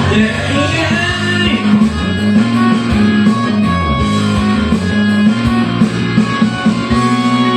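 Rock band backing track playing an instrumental passage led by electric guitar over bass and drums. The bass and drums drop out about seven seconds in, leaving guitar ringing on.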